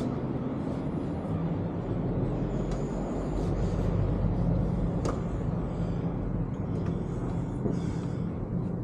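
Steady low hum of a motor vehicle engine running, over general street noise.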